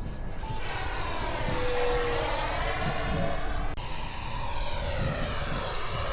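Radio-controlled electric ducted-fan jet flying by: a high fan whine comes in sharply about half a second in and holds, its tone slowly shifting as the model passes and moves away.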